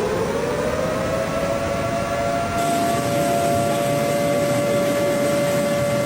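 Outdoor warning siren wailing: its pitch rises over the first second, then holds steady.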